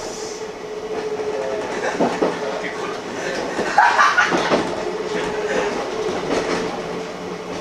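Kintetsu electric train running along the track: wheels clicking and knocking over the rails, with a steady hum.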